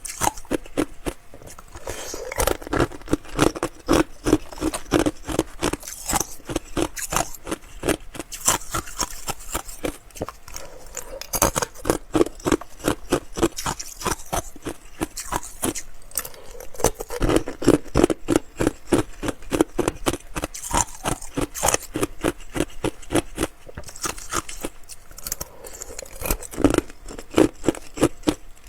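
Ice being bitten and chewed close to the microphone: a fast, unbroken run of crisp crunches and cracks.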